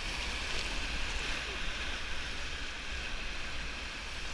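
Whitewater rapids of a mountain river rushing around a raft: a steady, even rush of moving water.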